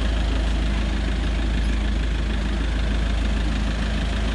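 Steady low rumble of a van's engine and road noise heard from inside the cabin while driving.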